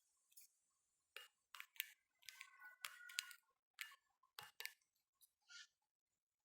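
Small backyard birds pecking at peanuts: irregular sharp taps and clicks, densest in the middle, with a few brief high notes among them.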